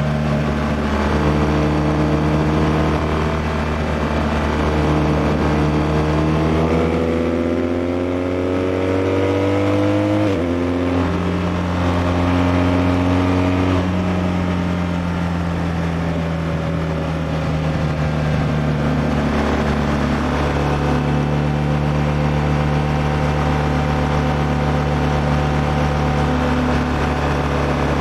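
BMW R1200R's liquid-cooled 1170 cc boxer twin under way: the revs climb from about six seconds in, drop sharply at a gear change near ten seconds, then settle into a steady cruise, with wind rush over the engine.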